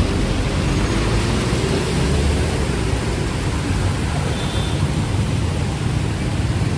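Steady street noise: a low traffic rumble under an even hiss, with no breaks.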